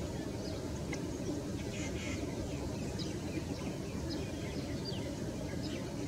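Short bird chirps, scattered and repeated, over a steady low rumble.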